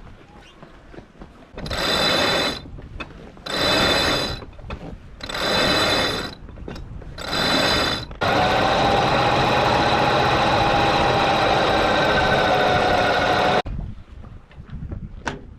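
Sailboat's electric winch hoisting a line under load: four short runs of about a second each, then one long steady run of about five seconds with a slightly falling whine, which stops abruptly.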